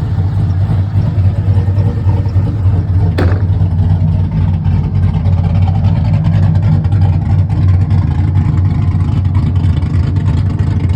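Cammed 6.0-litre V8 in a C5 Corvette idling steadily through a straight-piped exhaust, with one sharp click about three seconds in.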